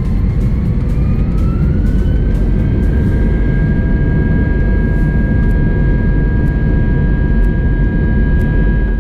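Airbus A320's IAE V2500 jet engines spooling up, heard from inside the cabin: a whine rises over the first two seconds and then holds steady over a loud, steady rumble, as at takeoff thrust. Light rattling clicks come in the first few seconds.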